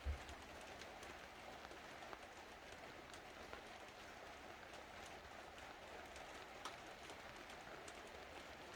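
Faint, scattered small clicks and ticks of hands working on a laptop's plastic casing and parts, with a short low thump at the start, over steady faint room hiss.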